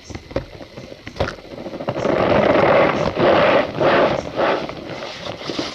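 Cornstarch powder being squeezed and pressed by hand, squeaking and crunching in repeated pulses about twice a second, growing loud about two seconds in after a few light clicks.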